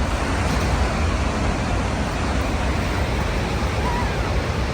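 Ocean surf with wind buffeting the microphone: a steady rushing noise over a heavy, uneven low rumble.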